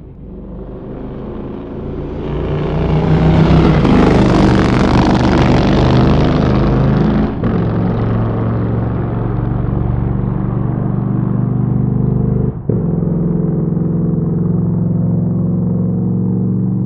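Motorcycle engine growing louder out of silence and running hard, loudest about four to six seconds in. The sound drops out briefly twice, about seven and twelve seconds in, then carries on steadily.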